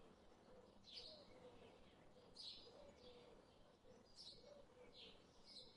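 Faint birdsong: short, high chirps, each falling in pitch, repeated about every half second to a second.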